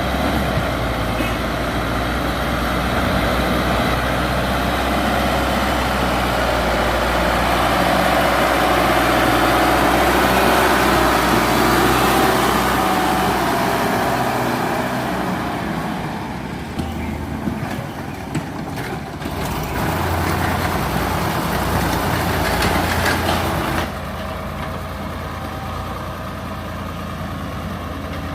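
Excavator's diesel engine running hard under load with a dense mechanical noise. About two-thirds of the way in the noise thins, and near the end it drops back to a quieter, steadier engine run.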